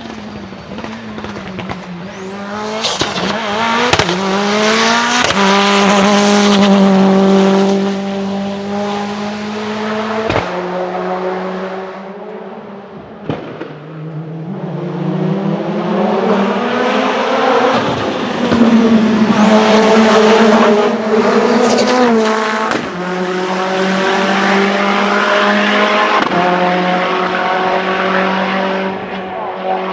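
Turbocharged Lancia Delta HF Integrale hillclimb car accelerating hard, its engine note climbing and dropping back sharply again and again as it shifts gear. It twice swells to full loudness as it passes close, with high squeals near each loud spell.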